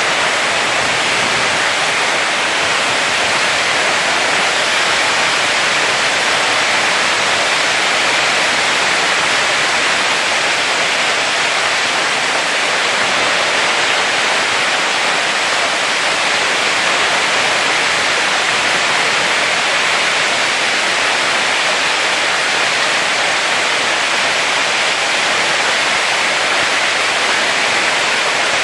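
Hailstorm with heavy rain pelting down: a dense, steady hiss of countless impacts with no let-up.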